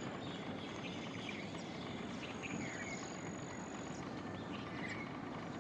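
Crested lark giving a few short, scattered chirping notes over steady outdoor background noise, with a thin steady high tone that comes and goes.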